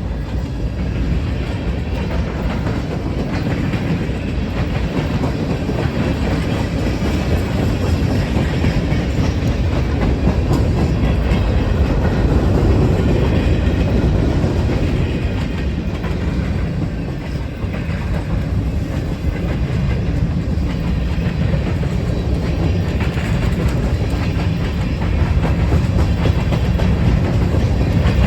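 Train rolling past: a steady, loud rumble and clatter of railcar wheels on the rails.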